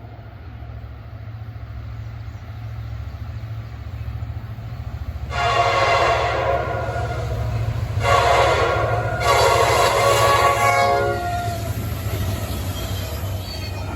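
CSX SD70MACe freight locomotive sounding its air horn for the grade crossing: three chords, the first the longest, from about five seconds in until about eleven seconds. Under them the low rumble of the approaching diesel locomotives grows steadily louder.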